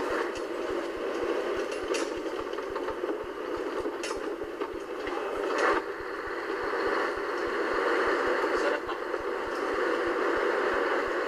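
Scania 143H 450 truck with its 14-litre V8 diesel running, a steady drone with a few clicks and rattles.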